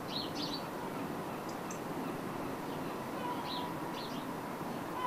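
Small birds chirping: a few short, high chirps in little clusters, near the start and again around three and a half seconds in, over a steady low outdoor background noise.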